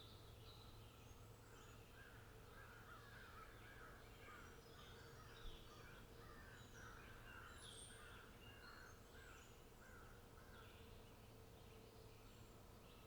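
Faint wild birds calling: a quick series of repeated notes from about two to ten seconds in, with scattered higher chirps throughout, over a low steady hum.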